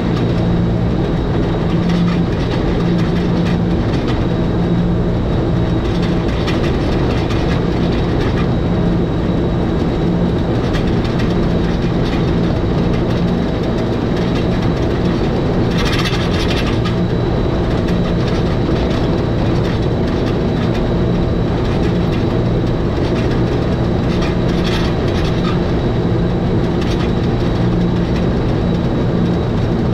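Electric rack railcar of the Schynige Platte Railway running downhill on the 800 mm rack line, a steady drone with a low hum and faint regular clicks from the wheels on the track. A short, harsher burst of noise comes about halfway through.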